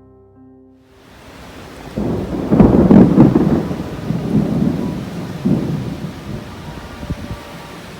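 Steady rain with a long roll of thunder. It swells loudest a couple of seconds in, then rumbles on more weakly and fades, as the first bands of Hurricane Idalia's storm arrive.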